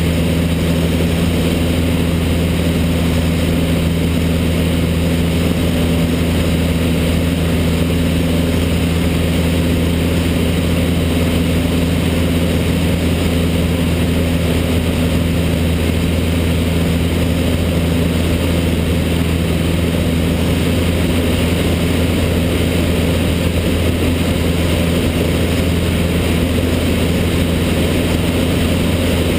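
Cessna 152's four-cylinder Lycoming engine and propeller running steadily, an unchanging loud drone with a deep hum.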